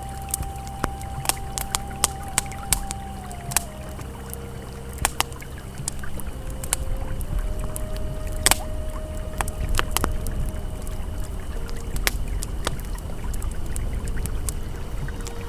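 Campfire crackling with irregular sharp pops, the loudest about halfway through, over the steady rush of a flowing river. Faint held ambient tones sit underneath and change pitch a few times.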